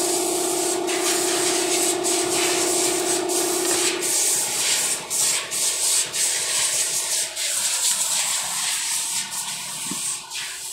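Repeated sanding or rubbing strokes on a part of the air compressor during assembly, over a steady hiss. A low steady hum fades out about four seconds in.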